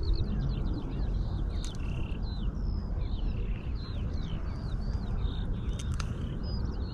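Birds singing: a steady stream of short high chirps and slurred whistles, over a low steady rumble.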